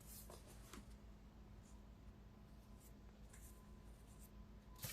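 Near silence: faint steady room hum, with a few soft ticks near the start.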